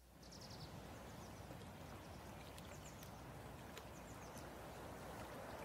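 Faint outdoor background hum with small birds chirping: a quick run of short high chirps near the start and a few more scattered chirps midway.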